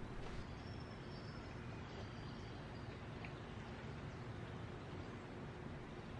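Faint woodland ambience: a steady hiss with distant birds giving short, thin, high calls several times.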